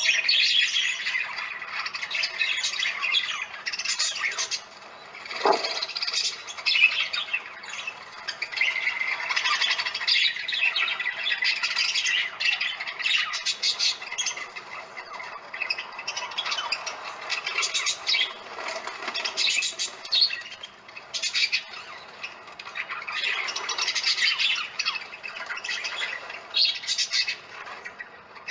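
A flock of parakeets calling continuously, many high-pitched screeching calls overlapping in a racket.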